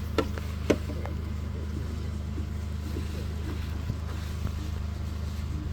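Steady low electrical hum, with a couple of faint clicks in the first second.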